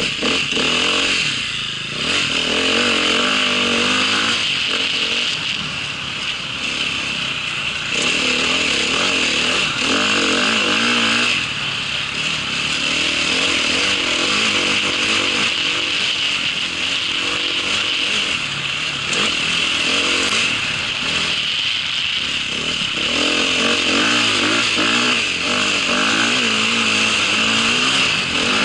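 Small vehicle engine running under way, its revs rising and falling in surges every few seconds over a steady high whine.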